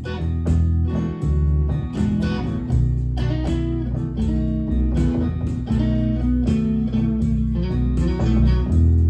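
Instrumental guitar intro to a song: guitar strummed in a steady rhythm over sustained low bass notes.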